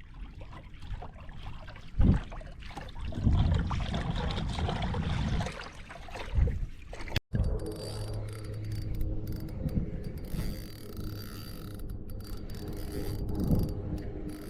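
Water sloshing with several low knocks against a kayak. After a sudden cut, a fishing reel winds in with a steady mechanical whirr.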